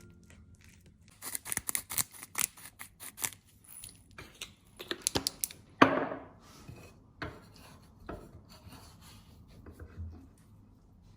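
A run of short scraping and rubbing strokes with clicks, quick and close together in two bunches in the first half. There is one sharper knock near the middle, then a few fainter, scattered strokes.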